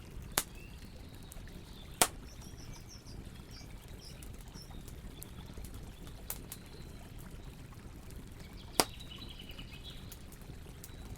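Campfire burning with a steady low rush and four sharp pops of wood cracking in the flames, two of them loud. Short high bird chirps come twice, once early and once near the end.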